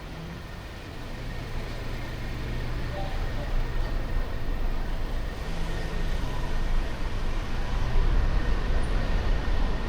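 Car driving in city traffic: engine and road rumble, low and steady, growing louder over the first eight seconds or so.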